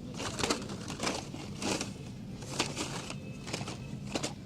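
Blister-packed Hot Wheels die-cast cars rustling and clacking against one another as they are sorted by hand in a dump bin: irregular plastic clicks and crinkles.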